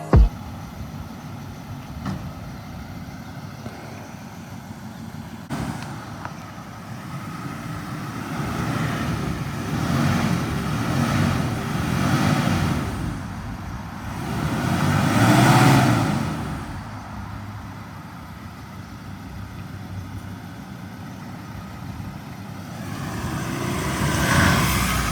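Road vehicles passing one after another, each swelling up and fading away over a few seconds, the loudest about two-thirds of the way through.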